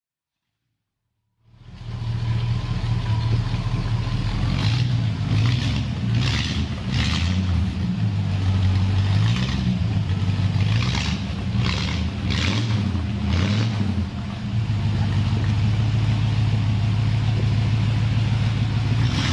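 Chevrolet 283 small-block V8 engine running, starting after about a second and a half of silence, with its speed rising and falling a few times. Short bursts of hiss recur through the middle.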